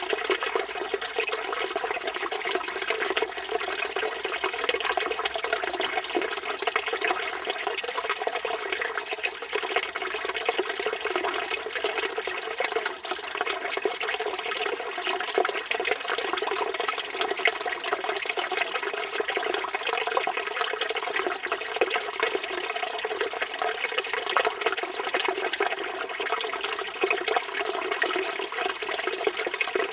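Steady stream of water from a village fountain spout splashing into its stone basin, running continuously.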